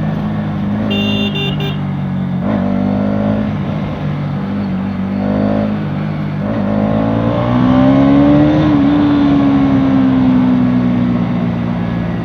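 Bajaj Pulsar NS200's single-cylinder engine running under way, its pitch rising as it accelerates about two-thirds of the way through, then easing while it holds speed. A short high beep sounds about a second in.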